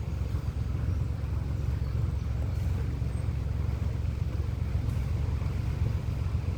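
Boat's motor running steadily underway: a constant low rumble.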